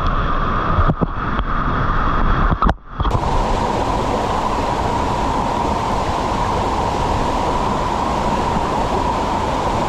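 Waterfall water rushing in a steady, even roar. In the first three seconds it is muffled, with low rumble and a few knocks. After a brief drop about three seconds in, it comes in clear and full.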